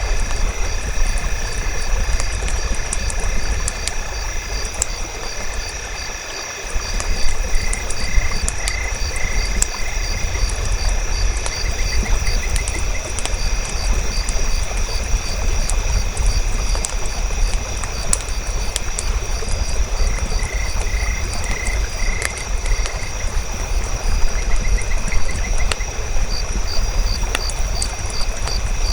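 A campfire crackling, with scattered sharp pops, over a steady chorus of night insects and frogs. Short runs of chirps come in a few times.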